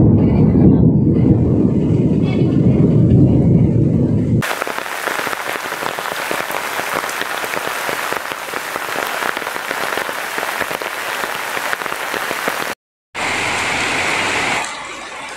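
Heavy rain in a series of cut-together clips. It opens with a loud, low rumble. About four seconds in, this cuts suddenly to the steady hiss of heavy rain falling on ground and standing water. Near the end there is a brief dropout, and then the rain continues more quietly.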